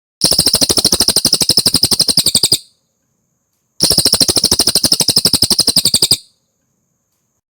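Cililin songbird trilling: two fast runs of rapid, evenly repeated high notes, about a dozen a second, each lasting about two and a half seconds, with a second's pause between them.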